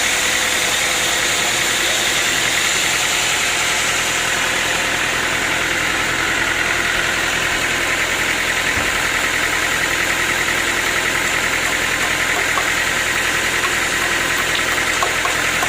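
Sawmill machinery running steadily, a constant mechanical drone that neither rises nor falls.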